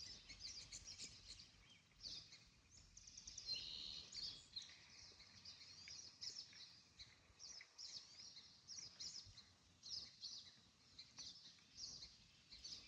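Faint birdsong: small birds giving many short, high chirps and trilled notes, repeating over near silence.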